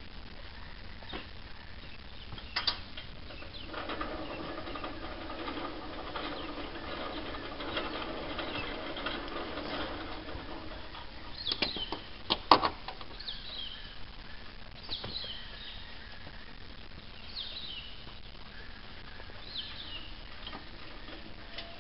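Birds calling in the bush, short falling high-pitched calls repeating every couple of seconds, over a steady drone that holds one pitch for several seconds early on. About midway there are a few sharp knocks, the loudest of them around twelve seconds in.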